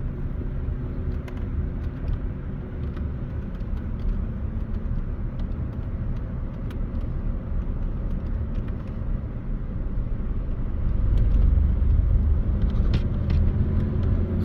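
Car driving on a mountain highway: steady low engine and road rumble with tyre noise, growing louder about eleven seconds in, with a few small clicks and rattles.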